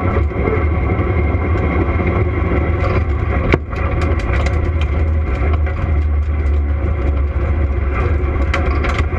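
Camaro drag car's engine running steadily at low revs, deep and even, with one sharp click about three and a half seconds in.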